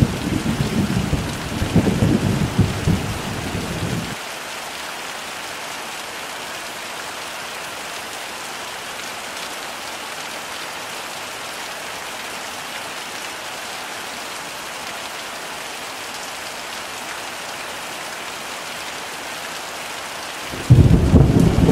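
Heavy rain falling as a steady even hiss. Low thunder rumbles for the first four seconds and cuts off abruptly, and another loud rumble of thunder starts suddenly near the end.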